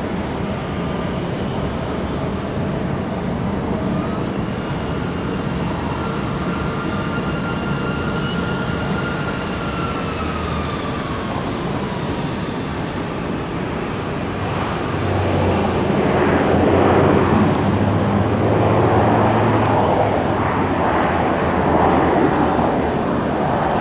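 Aircraft engine noise passing close by on the runway. A whine slides down in pitch as it goes past, then a louder rumble with a low steady hum builds over the last third.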